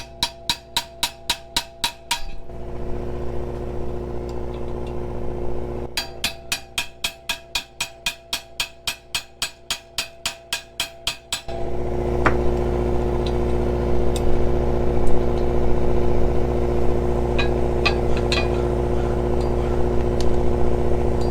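Rapid hammer blows on a stainless bolt seized in an aluminium bar by galvanic corrosion: a two-second run of about six blows a second, then a second run about six seconds in lasting some five seconds. A steady engine drone runs underneath and comes forward after the hammering stops, with a few scattered knocks.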